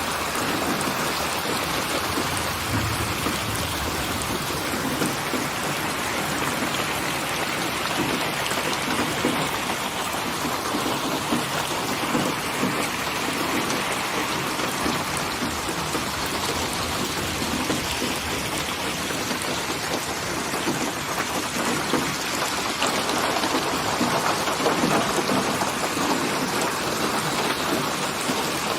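Steady rain falling, an even hiss of many drops that keeps on without a break.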